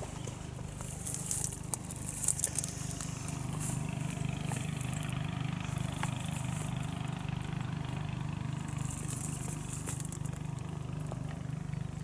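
A small engine running steadily at a constant low hum, with bursts of crackling rustle about a second in and again near the end.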